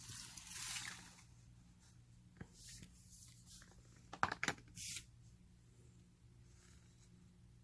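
Handling noises: a rustle at the start, then a single sharp click, a quick cluster of sharp clicks and a brief hiss, over a faint steady low hum.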